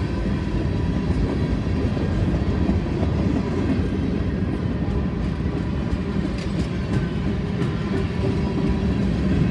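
Freight train of boxcars and covered hoppers rolling past at close range: a steady rumble and rattle of steel wheels on the rails, with a few faint clicks.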